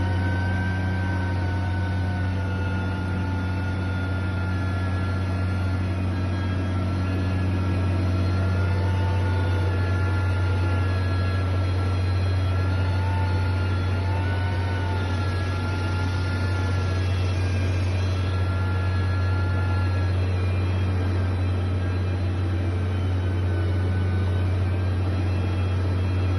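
Steady, unbroken drone of a heavy machine's engine, with thin whining tones above it that drift slightly up and down in pitch.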